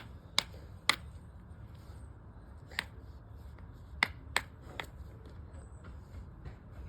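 A series of sharp, irregular clicks of hard objects knocking together, about seven over several seconds, over a low steady hum.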